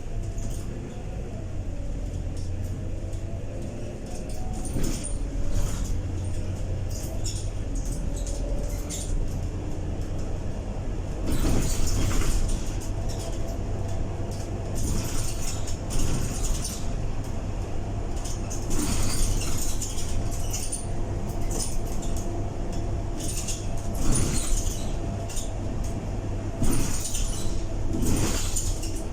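Scania K230UB bus on the move: a low engine drone with a thin whine from the ZF automatic gearbox, gliding in pitch early on and then holding steady, under frequent short rattles and clicks from the bodywork.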